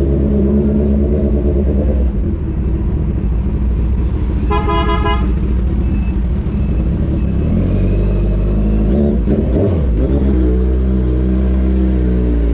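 Kawasaki Z1000 R's inline-four running loud through an aftermarket AR full titanium exhaust, its note shifting about ten seconds in. A vehicle horn toots briefly about four and a half seconds in.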